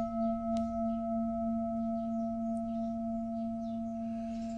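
Singing bowl ringing on after a strike: a steady low hum with a few higher overtones, slowly fading.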